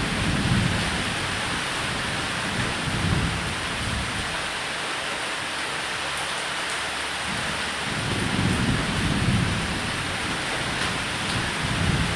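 Steady rain falling on a roof, with low rolls of thunder rumbling under it near the start, about three seconds in, and again over a couple of seconds late on.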